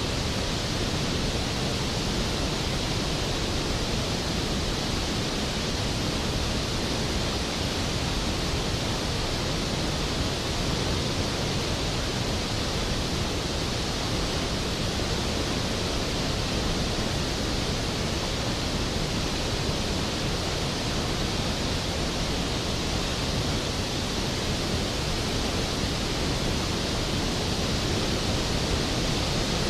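Skógafoss waterfall: a large waterfall's steady, even roar of falling water.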